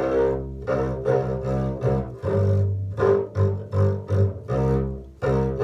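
Double bass playing a run of short notes, with other bowed strings sounding alongside.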